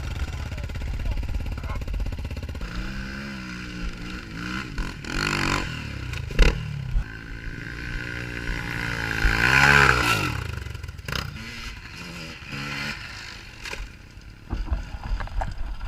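Dirt bike engine revving up and down several times, the loudest rev about two-thirds of the way through, with a few sharp knocks between revs.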